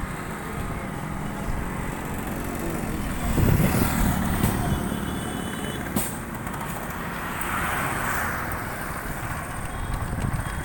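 Motor vehicle engine running amid road traffic noise, swelling about three and a half seconds in, with a sharp click near six seconds and a brief hiss about eight seconds in.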